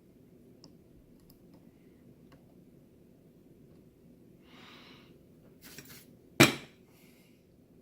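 Small handling noises, a few faint ticks and short rustles, then one sharp, loud click about six and a half seconds in.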